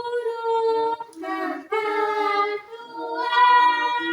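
Children singing a song without accompaniment, in long held notes with short breaks between phrases.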